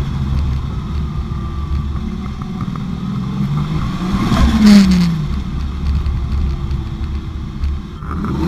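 Toyota 1JZ-GTE VVTi turbocharged straight-six running in a drift car, revs rising and falling. The loudest rev comes just under five seconds in, with a brief burst of hiss at its peak.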